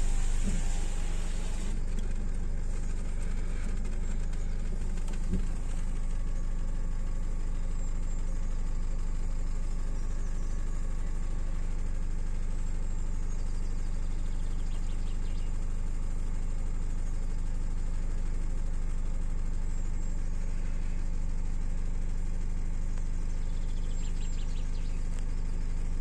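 Car engine running steadily at idle, a low, even hum heard from inside the car with the side window open.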